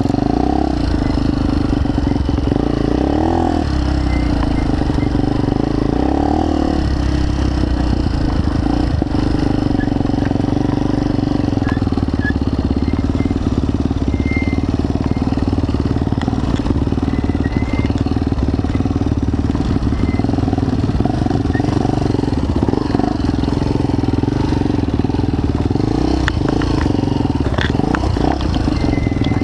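Motorcycle engine running steadily, with a few brief rises and falls in pitch in the first several seconds and again near the end.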